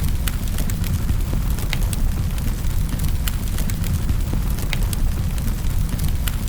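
Fireplace fire burning, with irregular sharp crackles and pops of wood over a steady low rumble of flames.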